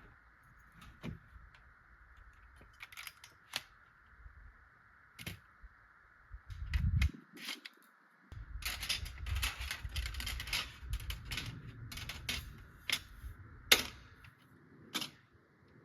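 Camping gear being handled: scattered sharp clicks and knocks, a dull thud about seven seconds in, then several seconds of busy clattering, over a steady faint hiss.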